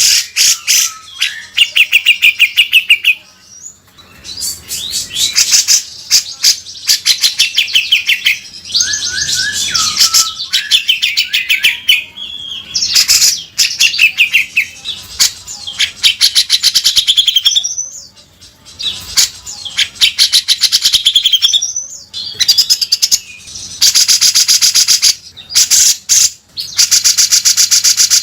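Grey-cheeked bulbul (cucak jenggot) singing continuously in fast chattering phrases broken by short pauses. The phrases mix quick trills with harsh, rasping rattles, the 'beset kasar' style, and the dense rattling runs longest near the end.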